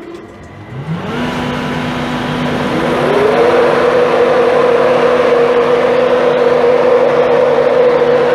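Diesel train engine revving up from idle, its note rising for a couple of seconds and then holding steady and loud as the train pulls away.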